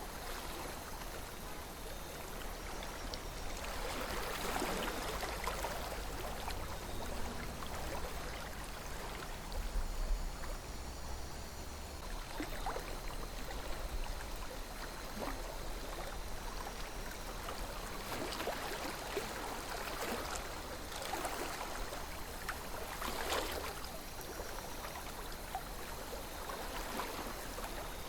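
Calm river flowing: a steady wash of running water, with a few brief swells and small splashing ticks.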